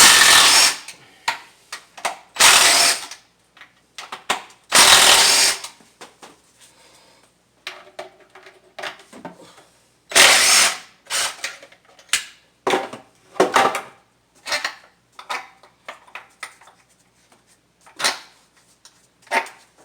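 A 10 mm socket tool backing out engine cover bolts: four loud bursts of tool noise, each under a second, with lighter clicks and metal knocks between them.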